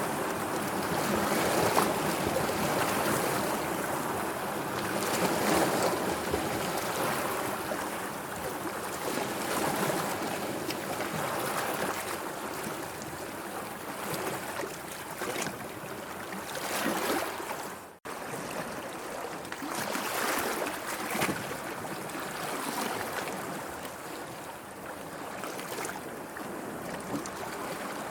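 Sea waves washing and lapping, swelling and easing every few seconds. The sound cuts out abruptly for a moment about eighteen seconds in, then resumes.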